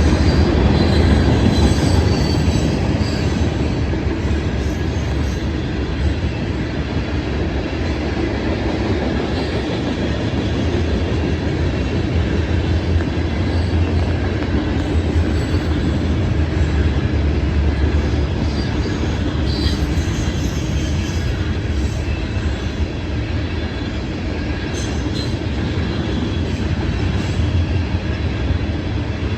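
Norfolk Southern freight train's cars rolling past at a grade crossing: a steady, loud rumble with the clatter of wheels on the rails. Brief high-pitched wheel squeals come through a couple of times, near the start and again past the middle.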